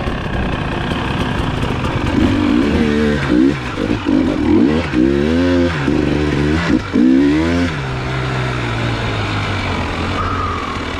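Dirt bike engine revving up and down in quick throttle bursts for several seconds, then settling back to a steady low-speed run.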